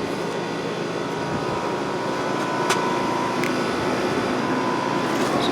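Trane XR16 3-ton air conditioner condensing unit running: a steady fan rush and compressor hum with a faint high tone.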